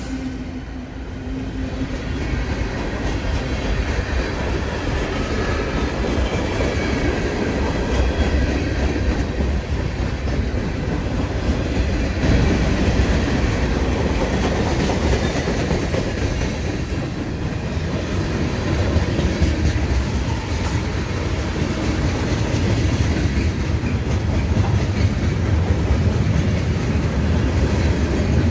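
Train cars rolling past close by, their wheels clattering over the rails in a continuous, loud rumble.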